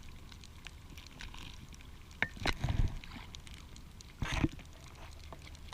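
Water sloshing faintly against a paddleboard, with two brief louder splashes about two and four seconds in, muffled through a waterproof camera housing.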